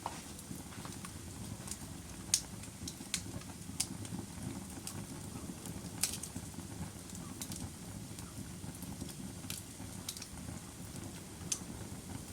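Log fire burning in a fireplace: a low, steady rumble of flames with irregular sharp crackles and pops, the loudest pop about two seconds in and another about six seconds in.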